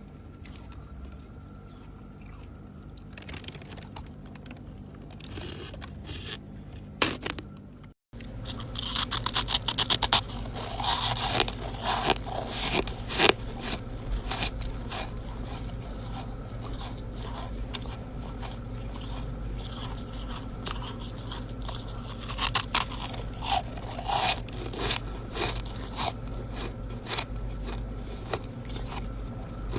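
Freezer frost being scraped, then, after a short break, close-up biting and chewing of crunchy chest-freezer ice: dense crackly crunches, loudest a second or so after the break and continuing steadily.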